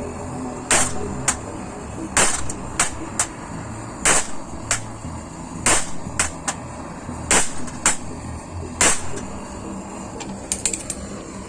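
Hammer blows on the metal grate of a fire pit, struck to straighten its warp: sharp metallic strikes at an uneven pace, often two or three close together, with a quick flurry of lighter taps near the end.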